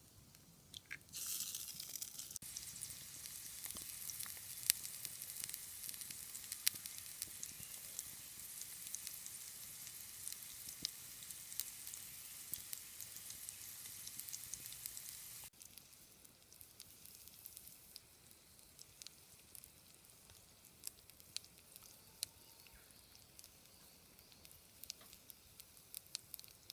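Food sizzling and popping in a hot frying pan over a wood fire. About halfway through the sizzle cuts off abruptly, leaving only quieter scattered crackles.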